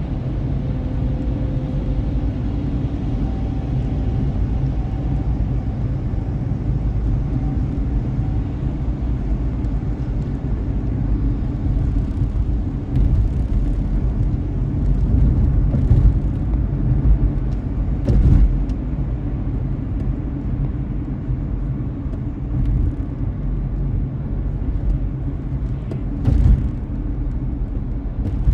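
Car driving on a rain-wet road: a steady low rumble of engine and tyres, with a few short thumps from bumps in the second half. A faint steady tone fades out in the first few seconds.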